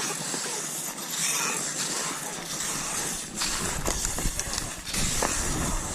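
Cross-country skis hissing and scraping over snow with uneven, stride-paced clicks and strokes. A low rumble joins about halfway through.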